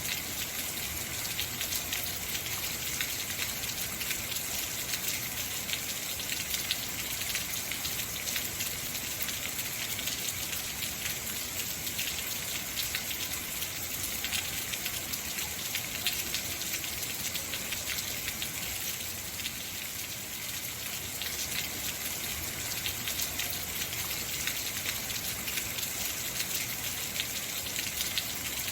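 Heavy rain falling steadily, a dense hiss of drops with fine pattering.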